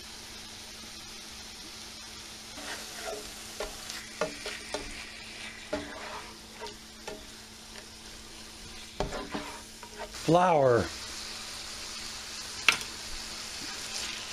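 Chicken and vegetables sizzling in a skillet while a spatula stirs and turns them, with a run of short scrapes and taps against the pan from about three seconds in and a sharp tap near the end. One spoken word about ten seconds in.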